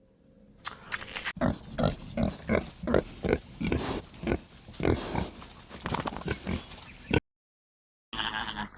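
An animal making a rapid series of short, rough calls, about three a second, that cut off suddenly near the end.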